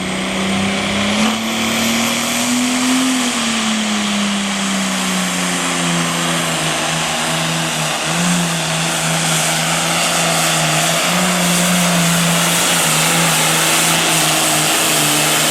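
Super Farm class pulling tractor's turbocharged diesel engine running hard at high revs. Its pitch climbs over the first three seconds, eases back, and then holds steady.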